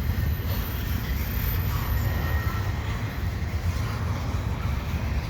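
CN double-stack container freight train rolling past slowly, a steady low rumble of its cars running on the rails.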